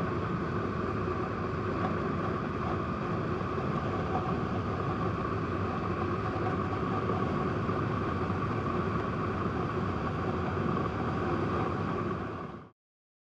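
Honda PC800 motorcycle's V-twin engine running at a steady cruising speed, mixed with wind and road noise. The sound cuts off suddenly near the end.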